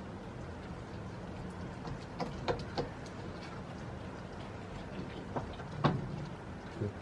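Steady rain, with a few sharp clicks and snaps over it: a cluster of three about two to three seconds in, and the loudest one near six seconds.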